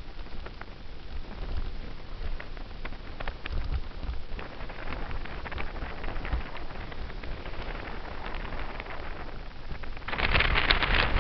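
Wind buffeting a helmet camera's microphone and bicycle tyres running on pavement while coasting downhill. There are scattered small clicks and a low rumble that comes and goes. About ten seconds in, a louder rush of wind noise sets in.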